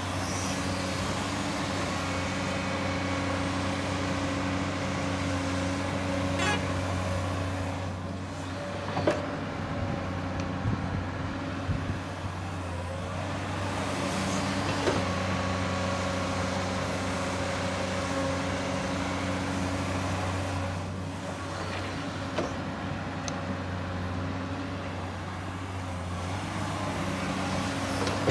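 Komatsu hydraulic excavator's diesel engine running steadily, its note easing and picking up again a few times as it works. A few sharp clanks come between about nine and fifteen seconds in.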